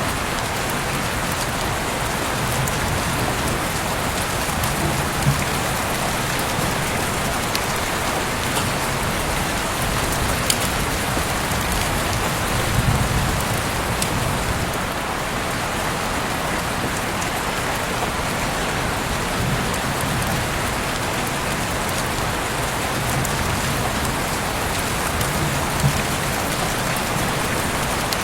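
Heavy rain falling steadily as a dense, even hiss, with a few sharper drop ticks standing out now and then.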